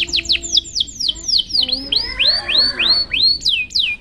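Canary singing a fast run of repeated whistled notes, each sweeping down in pitch, about four a second. Midway the song changes to a run of rising notes, then returns to falling ones.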